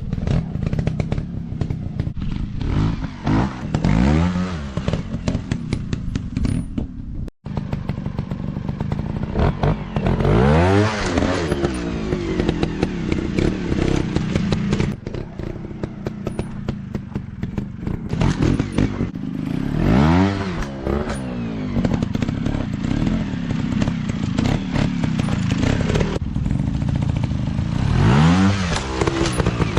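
Dirt bike engine revving up and easing off again and again, its pitch rising and falling in several surges, with clatter mixed in.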